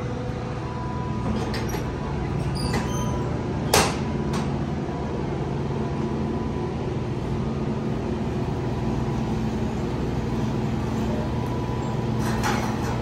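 A motor running steadily with a constant hum, with one sharp knock about four seconds in.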